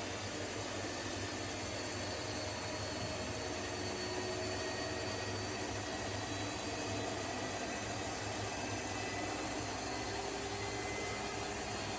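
Washing machine running: a steady mechanical hum and whirr with an even hiss, unchanging throughout.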